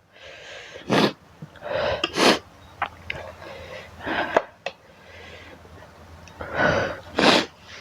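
About six short, sharp, noisy breaths and sniffs, with a few faint clicks between them, from someone eating very spicy instant noodles. It is the hissing, sniffling breathing of a mouth and nose burning from chilli heat.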